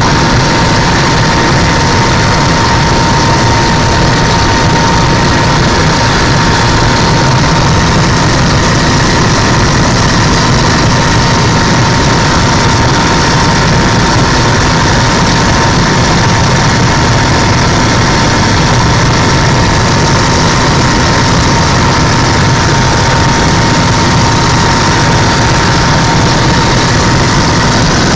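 Helicopter in flight: loud, steady engine and rotor noise with a constant high whine that holds the same pitch throughout.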